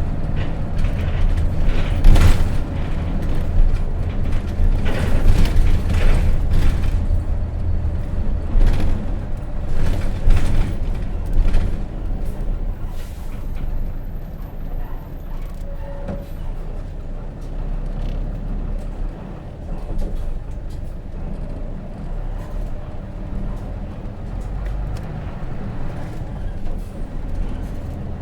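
Hino RJ city bus's J08C diesel engine heard from on board, with several surges of air-brake and brake noise in the first dozen seconds, then settling to a quieter, steady low hum for the rest.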